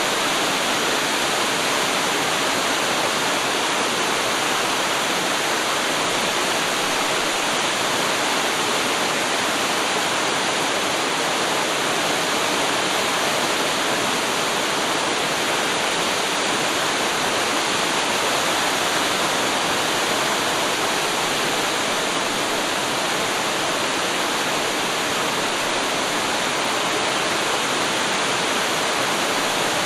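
Waterfall: water pouring steadily over a drop, an even unbroken rush.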